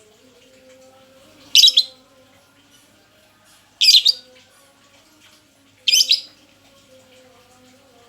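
Lovebird giving short, high-pitched chirping calls, three of them about two seconds apart.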